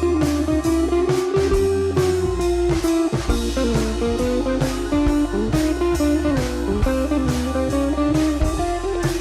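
Background music: a blues-style electric guitar playing gliding, bending notes over bass and a steady drum beat.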